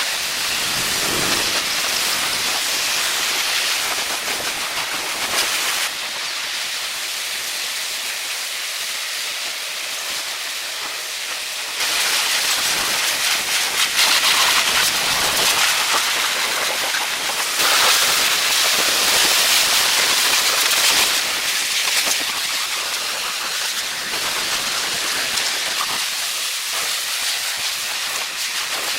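Steady hissing noise with no clear pitch, shifting in loudness several times: quieter around six to twelve seconds in, louder from about twelve seconds and again around eighteen to twenty-one seconds.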